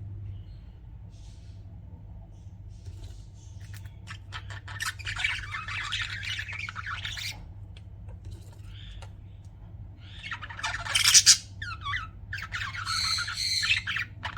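Pet budgerigars chirping and chattering in scattered bursts of rapid, squawky calls, starting after a few quieter seconds, with the loudest burst about eleven seconds in.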